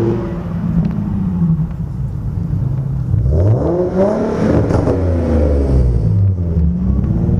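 Nissan 370Z's V6 engine revving as the car accelerates past close by: its note climbs to a loud peak about halfway through, then drops away as it goes by.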